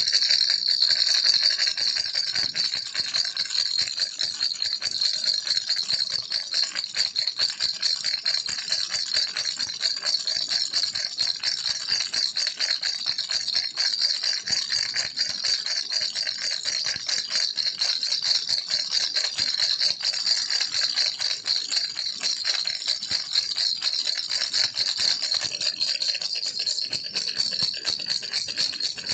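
Baby rattle shaken without pause, a dense, fast, high-pitched clatter.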